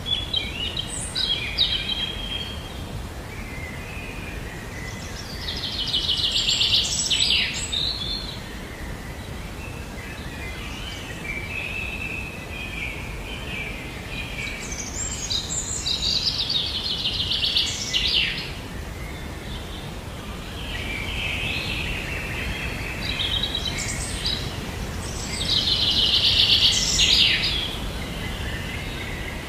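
Birds singing: a fast, trilling song phrase about two seconds long repeats roughly every ten seconds, with shorter chirps between, over a steady low background hiss.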